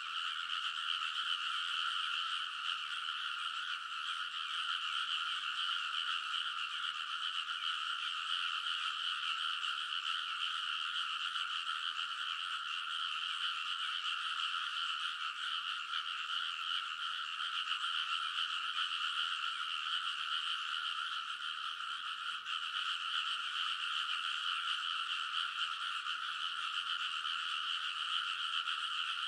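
A dense chorus of many frogs calling at once, their croaks overlapping into one continuous, steady wall of sound with no pauses.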